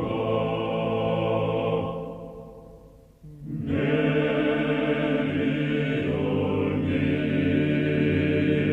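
Choral chant music with deep, sustained voices. It fades out about two seconds in and starts again about a second later.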